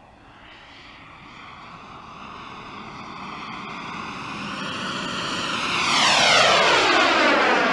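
Radio-controlled Eurofighter model jet flying past: its engine noise grows steadily louder as it approaches, is loudest about six seconds in, then sweeps downward in pitch as it goes by.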